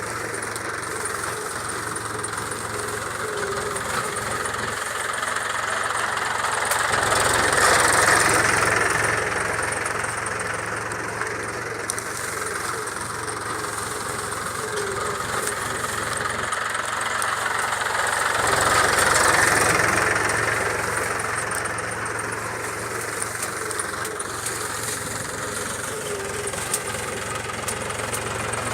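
Mahindra tractor engine running steadily with a low hum, swelling louder twice, about a quarter of the way in and again about two-thirds in.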